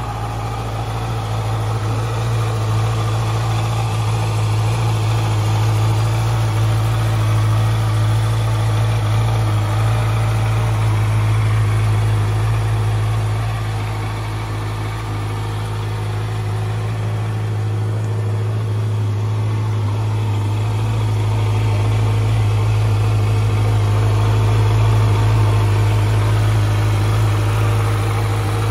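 Honda CB650F's 649 cc inline-four engine idling steadily, with no revving.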